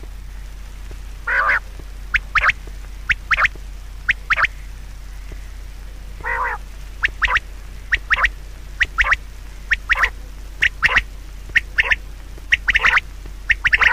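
Short, sharp calls of a bird or other animal, repeated irregularly one to three times a second, with two longer calls among them, over a steady low hum.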